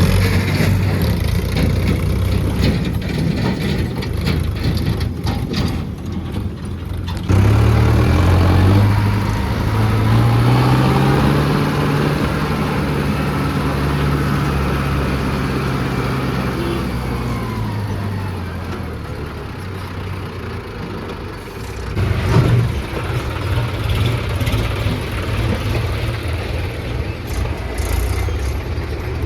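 Tractor diesel engines running. About seven seconds in, a louder engine comes in suddenly and revs up. It holds, then slowly winds down and fades by about 21 seconds, and another engine sound picks up again just after.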